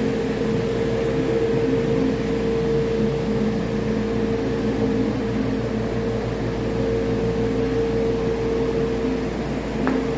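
1998 Cummins ISC inline-six diesel engine running steadily on a test run, with a steady whine over the engine note and a short click near the end; it runs well.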